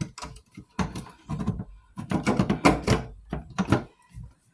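Hard plastic parts knocking and scraping as the drain filter housing of an Indesit washing machine is fitted back together, in several short irregular bursts.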